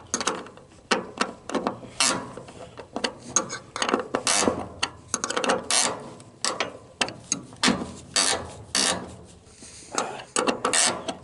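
A ratchet wrench clicking in short, uneven back-and-forth strokes, roughly one or two a second. It is fitted on the hex end of a screwdriver and is turning a stubborn screw out of a trailer's wooden board.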